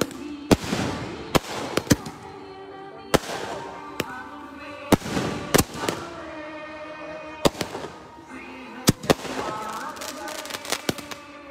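Aerial fireworks going off: sharp, irregular bangs of bursting shells, about fifteen in all, several coming in quick succession near the end.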